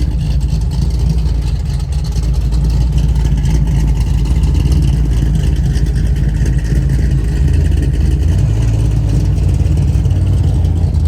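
Ford Mustang drag car's engine running with a steady, loud low rumble, without clear revving sweeps.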